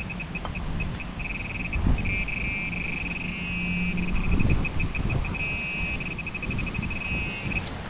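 Metal detector's high-pitched signal tone, pulsing rapidly and then holding steady in two longer stretches, cutting off suddenly near the end, over wind noise on the microphone.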